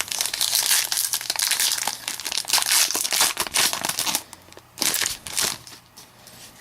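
Foil wrapper of a trading-card pack crinkling as it is handled and opened, dense and crackly for about four seconds, then a few shorter rustles.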